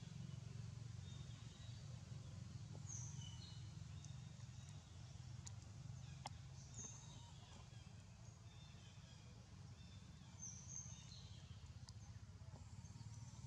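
Quiet outdoor ambience: a steady low hum with scattered short, high bird chirps, and a single sharp click about six seconds in.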